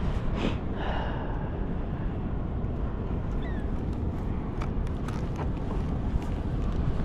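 Steady low rumble of wind and rushing water, with a few light clicks and taps scattered through it.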